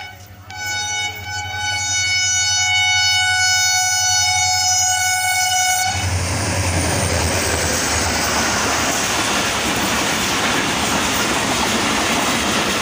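Locomotive horn of an express train sounding one long steady note, with a brief break just at the start, until about six seconds in. Then the train passes close by at speed, a loud steady rush of wheels on the rails.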